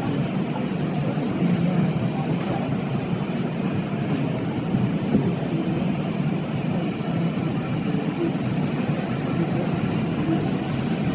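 R188 subway train running into the station, a steady rumble of motors and wheels on the track that holds level throughout.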